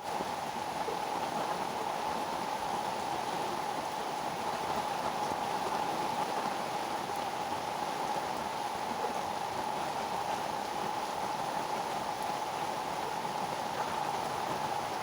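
Heavy rain falling steadily on green leaves, a dense, even patter.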